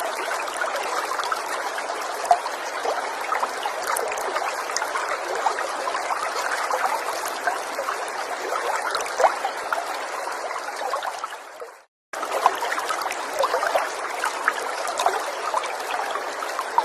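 Small stream trickling and splashing steadily over stones. About twelve seconds in it fades out to a moment of silence, then comes back abruptly, as at a splice in a looped recording.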